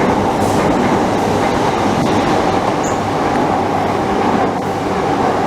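Class 375 Electrostar electric multiple unit running past the platform, a loud steady rumble of wheels on the rails.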